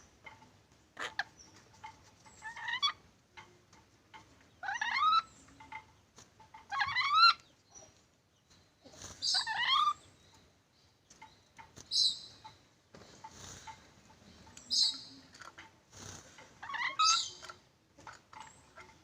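A nuri dora parrot calling, about seven loud, harsh calls, each a short rising glide, repeated every two to three seconds.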